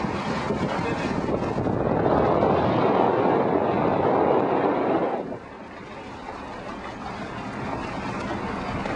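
Wind buffeting the microphone over the rush of water and motor noise of a sailboat under way. It grows louder for a few seconds, then drops abruptly a little past halfway.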